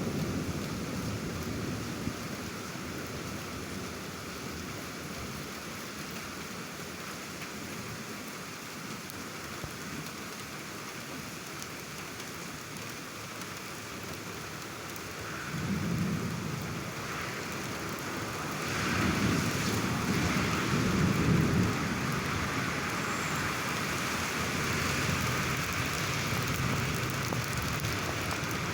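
Steady rain falling during a thunderstorm, with thunder rolls: a low rumble fading at the start, a short one about halfway through, and a longer, louder roll about two-thirds of the way in, as the rain grows heavier.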